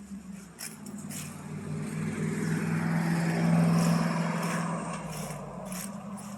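A motor vehicle driving past, its engine hum growing louder to a peak about three to four seconds in and then fading away.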